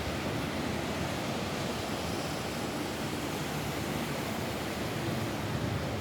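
Steady rain falling on a roof, an even hiss with no separate drops standing out.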